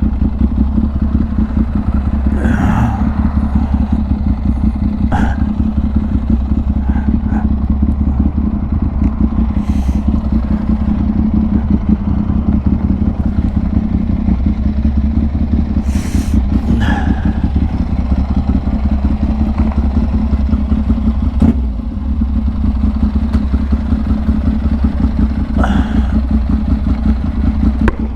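Motorcycle engine running steadily at low revs, with a few short clicks and scrapes scattered over it.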